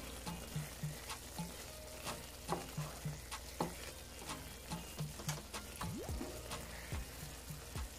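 Chicken liver frying and sizzling steadily while being stirred, with irregular scrapes and clicks from the stirring.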